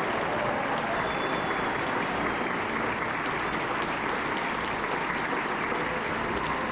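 Audience and choir applauding steadily, a dense continuous clapping that holds an even level throughout.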